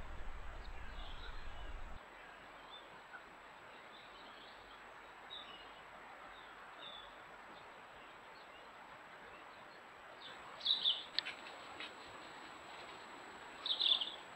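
A small bird chirping: scattered faint high chirps, then two louder clusters of high chirps, one about ten seconds in and one near the end, over a steady faint hiss. A low hum runs through the first two seconds.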